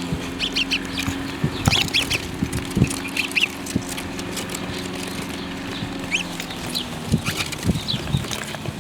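Birds making many short, high chirps in quick irregular runs, with scattered sharp taps and a low steady hum underneath.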